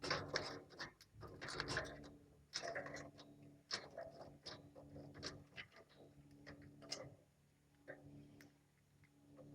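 Lovebirds pecking and cracking seed with their beaks: quiet, irregular clicks and short rustles, over a faint steady low hum.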